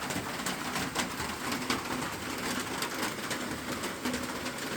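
Heavy rain drumming on a metal roof: a dense, steady patter of drops.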